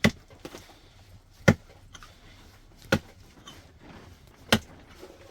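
Four sharp chopping blows, evenly spaced about one and a half seconds apart.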